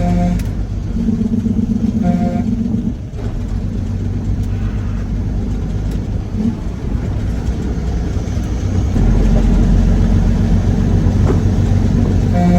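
Peterbilt semi truck running down the road, its engine and road noise heard in the cab, getting louder about nine seconds in.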